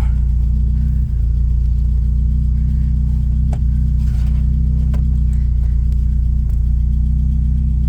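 Ford Escort XR3i's four-cylinder engine idling steadily with a deep, even exhaust note.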